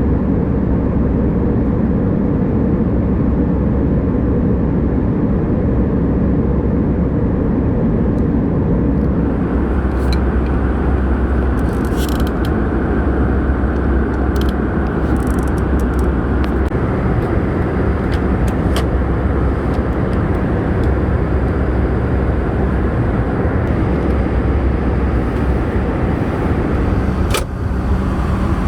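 Steady cabin noise aboard an Airbus A319: a loud, even rumble of engines and airflow, with scattered light clicks and rattles from about a third of the way in and a brief dip near the end.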